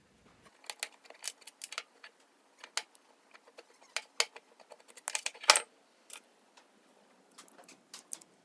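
Irregular small metallic clicks and clinks of hand tools and parts being handled while a 125cc motorbike engine's carburettor is taken off the cylinder head, with a louder clatter about five and a half seconds in.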